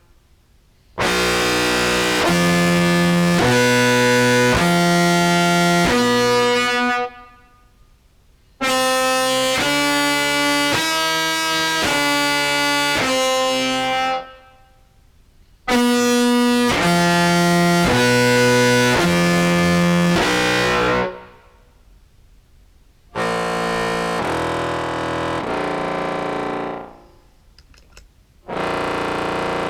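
Contrabass clarinet played through an EHX POG2 octave pedal set to mixed octaves into a Behringer Brassmaster fuzz, giving a thick, distorted, multi-octave tone. Five short phrases of several held notes stepping in pitch, with brief pauses between them where reverb tails fade.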